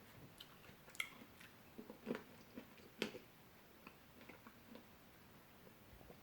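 A person chewing fruit close to the microphone: scattered soft crunches and wet clicks, the loudest about one, two and three seconds in.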